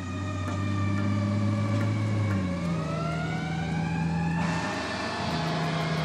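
Fire truck siren wailing, its pitch falling and then rising again, with a sudden hiss coming in about four and a half seconds in.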